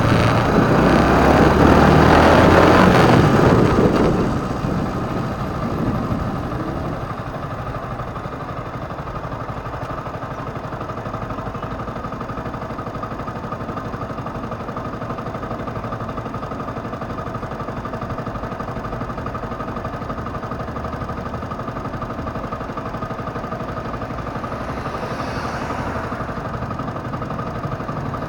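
Motorcycle engine heard from the bike itself. A loud rushing noise for the first four seconds fades away, then the engine idles steadily.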